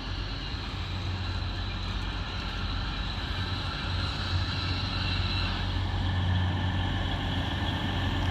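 Steady low hum of a train standing at the station, with a faint high tone that fades about five seconds in.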